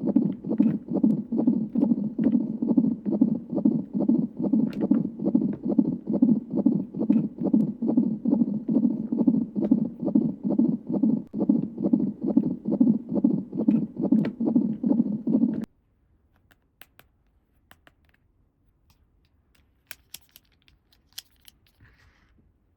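A battery-powered toy's electronic sound effect: a loud buzzing hum pulsing about three to four times a second, which stops suddenly about 16 seconds in. Faint clicks and taps of plastic toy pieces being handled follow.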